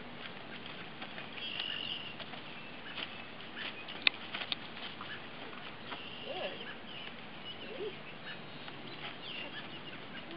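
Birds chirping now and then over a steady outdoor hiss, with faint rustles and small clicks and one sharp click about four seconds in.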